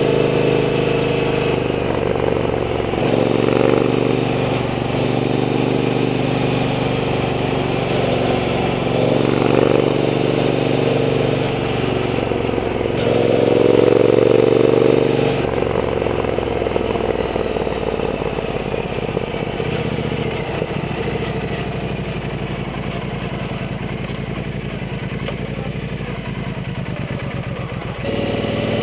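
Triumph Bonneville T120's 1200 cc parallel-twin engine through a Zard exhaust, pulling up through the revs several times in the first half. It settles to a lower, steady beat with a regular pulse for the second half.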